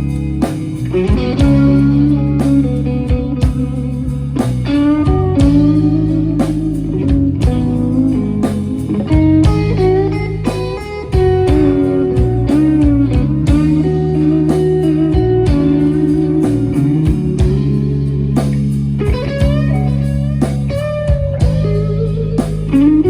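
Live blues band playing an instrumental passage: electric lead guitar playing a solo with bent notes over a bass line and drums.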